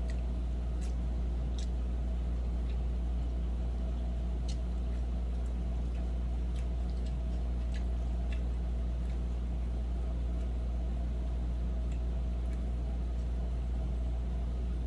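Steady low hum, like a car engine running, under scattered small clicks and taps from eating.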